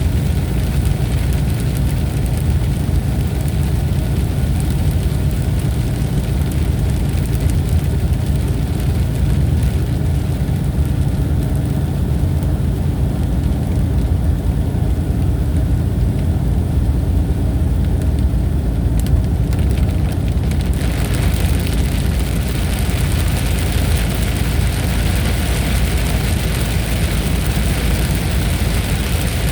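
Thunderstorm sound: a continuous deep rumble under a steady hiss, the hiss growing brighter about two-thirds of the way through.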